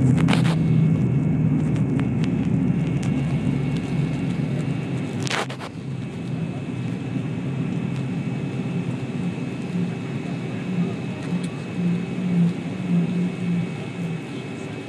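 Airliner cabin noise as the jet slows after landing: a low rumble of engines and runway that fades steadily, with a sharp knock about five seconds in and a steady high whine underneath.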